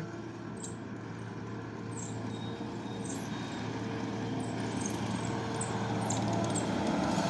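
Skid steer's engine running steadily, growing gradually louder as the machine works the dirt and comes nearer, with a few faint light clinks.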